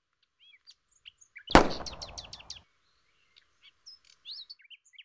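Small birds chirping in short rising and falling calls, broken about a second and a half in by a single loud, sharp bang that rings out for about a second.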